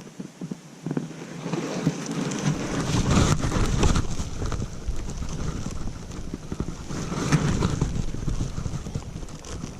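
Rustling, rumbling noise on the microphone. It swells twice, peaking about four seconds in and again near seven seconds, then fades toward the end.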